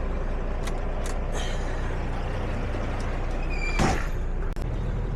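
Semi truck's diesel engine idling steadily after a jump start, with a few faint clicks and one brief sharp hiss with a whistling edge about four seconds in.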